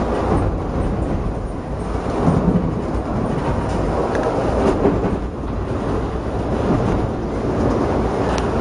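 Amtrak passenger train running along the track, heard from inside the coach as a steady low rumble.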